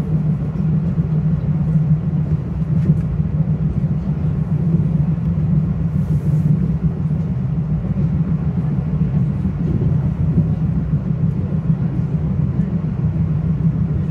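Inside a moving Metro-North commuter train: a steady rumble of the wheels running on the rails, with a constant low hum. There is a brief hiss about six seconds in.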